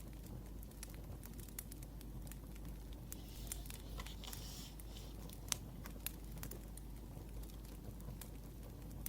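Wood fire crackling, with irregular sharp pops and snaps over a low steady rumble, and a soft hissing rustle about three to five seconds in.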